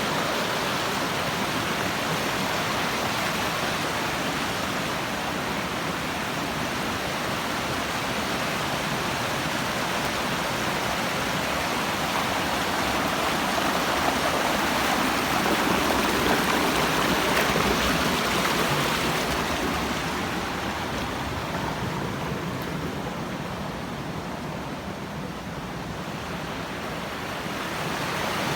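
Fast-flowing river water rushing steadily. It grows louder around the middle, then softens before rising again near the end.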